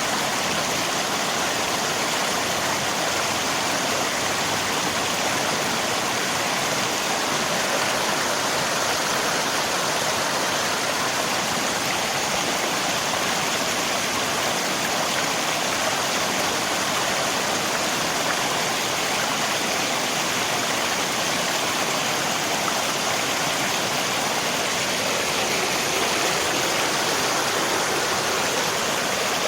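River water rushing steadily, mixed with rain, an even unbroken noise with no separate drops or splashes standing out.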